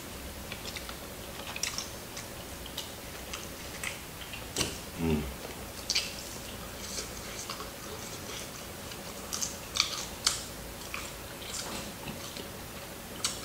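Close-miked chewing and biting of crispy fried chicken, with scattered sharp crunches and wet mouth clicks. A short low hum falls in pitch about five seconds in.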